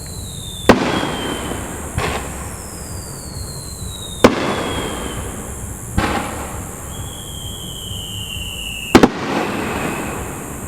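Aerial fireworks shells bursting with sharp bangs about every two seconds, the last a quick double, each followed by a short crackle. High whistles slide down in pitch between the bangs.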